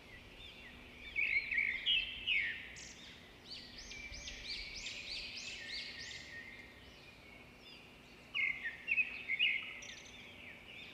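Several small birds chirping and chattering in quick, high-pitched calls, loudest in two busy bursts about a second in and again about eight seconds in.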